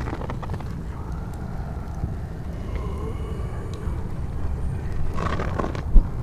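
Layered horror ambience mix: a steady low rumble with faint drawn-out tones over it, a patch of scraping and rattling about five seconds in, and one sharp, heavy thump just before the end, the loudest sound.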